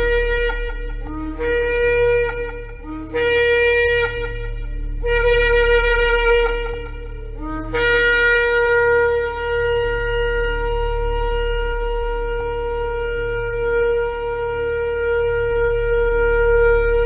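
A shofar (ram's horn) sounding a few short blasts, each starting on a lower note and breaking upward, then from about eight seconds in one long, steady, held blast.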